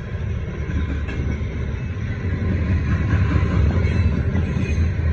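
CSX freight train's cars rolling past a grade crossing: a steady low rumble of wheels on rail, growing a little louder partway through.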